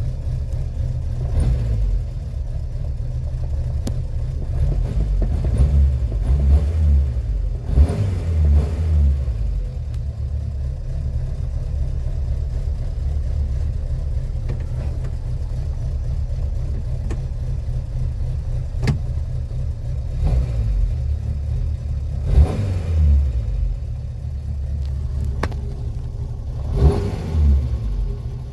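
Renault 4's four-cylinder petrol engine running at a low, steady speed, given short blips of throttle that raise its pitch several times: a few in a row about six to nine seconds in, and again twice near the end.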